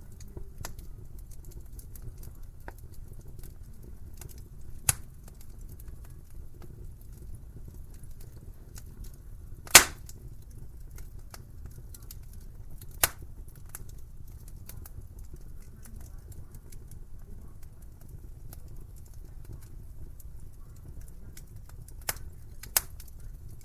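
Wood fire crackling in a fireplace: a low steady rumble of the flames with small crackles throughout and a handful of sharp pops, the loudest about ten seconds in.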